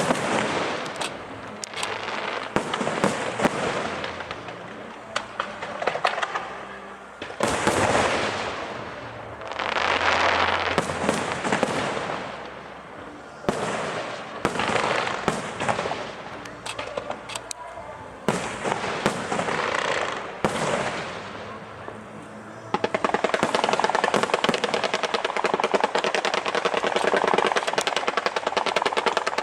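Aerial fireworks shells bursting, each boom followed by a crackling tail, several times over the first twenty seconds. About 23 s in, a dense rapid popping barrage starts and keeps going.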